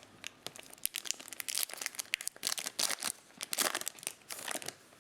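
Foil trading-card pack wrapper being torn open and crinkled: a dense run of sharp, high crackles that fades out near the end.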